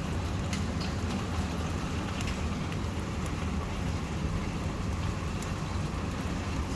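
Wind-driven heavy rain heard through a closed door: a steady low rush with scattered drops ticking against the surfaces.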